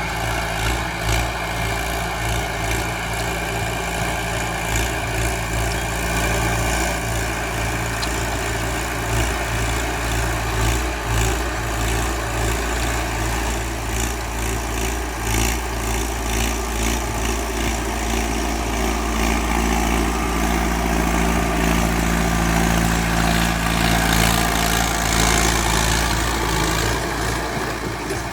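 Mahindra Arjun 605 DI 4WD tractor's diesel engine running steadily while driving a Shaktiman 78-blade rotavator, growing a little louder about two-thirds of the way through.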